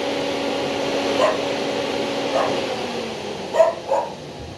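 Ford Fiesta's electric radiator cooling fan, switched on at high speed from a scan tool, runs with a steady hum, then is switched off just under three seconds in and spins down with a falling tone. The fan works on its high speed while its low speed does not. A dog gives a few short barks over it.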